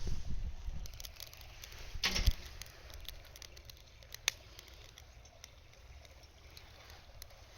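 Wood fire crackling in a burn can: scattered small pops and one sharp pop a little past the middle, over a low rumble, with a brief louder rush about two seconds in.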